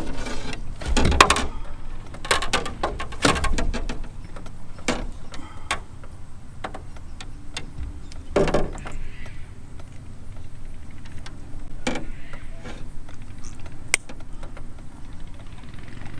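Clunks, knocks and rattles of fishing gear and a landing net being handled in a canoe while a hooked fish is dealt with. Dense clatter for the first few seconds, then a few separate sharp knocks.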